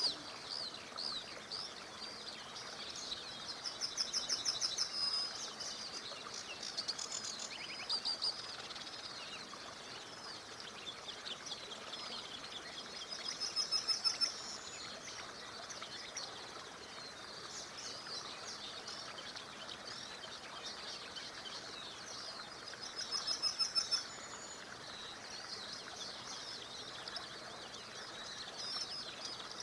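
Several songbirds chirping and singing over a faint, steady stream murmur; one bird sings a loud rapid trill three times, about every ten seconds.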